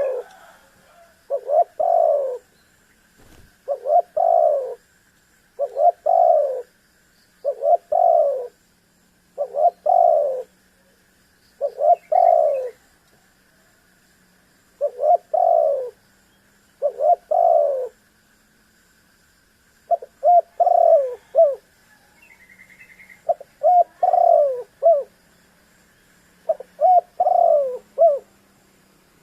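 Spotted dove (tekukur) cooing over and over, one multi-note coo phrase every couple of seconds, with two short breaks along the way.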